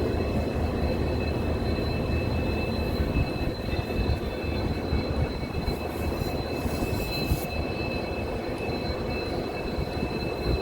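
Passenger train running along the track: a steady low rumble with a thin, steady high-pitched whine over it.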